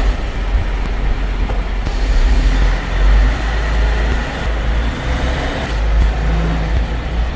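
Loud motorized equipment running steadily, with a heavy low rumble and a dense hiss over it.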